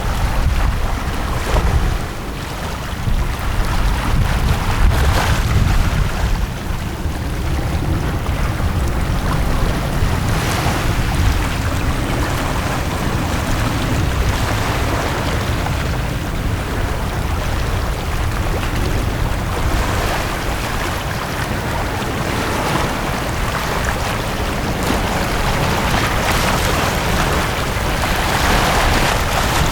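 Sea waves washing onto a beach, each wave swelling up as a wash of surf several times, the last one near the end the loudest, over a steady low rumble of wind on the microphone.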